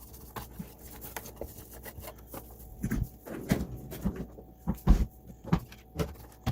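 Hands working on a Roomba i7 robot vacuum's plastic body: a run of irregular clicks and knocks, louder and closer together in the second half.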